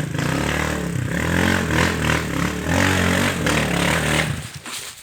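Small motoblock (walk-behind tractor) engine running hard, its pitch rising and falling with the throttle, with clattering from the machine. Near the end the engine sound drops away sharply.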